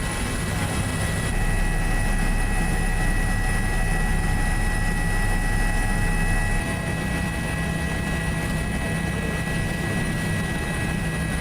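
Steady aircraft engine noise: a constant low rumble under several fixed, even tones. It gets louder about a second in and drops back a little past the middle.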